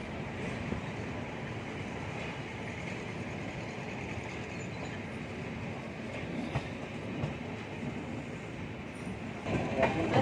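Passenger express train running along the track: a steady rumble and rattle of the wheels and coaches.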